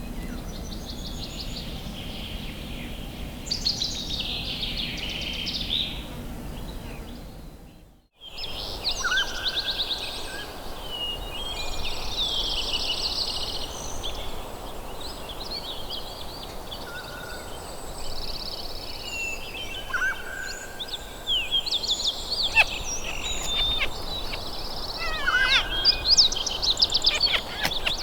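Wild birds chirping and trilling over a steady outdoor hiss. The sound fades out and back in about eight seconds in, and sharper, louder chirps come near the end.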